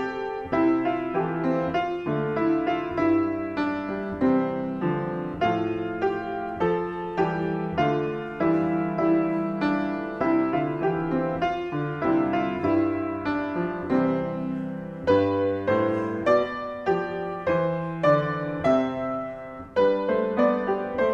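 Solo piano playing a continuous piece of struck chords and melody notes.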